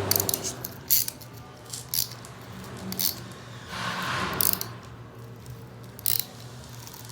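Scattered metal clinks and taps of a wrench working the nut that holds a new cutting wheel on an air die grinder, with a short scraping rustle about four seconds in.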